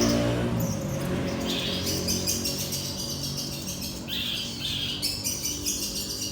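A sogon songbird chirping and calling repeatedly in short, high, scratchy phrases. A low hum fades out in the first second.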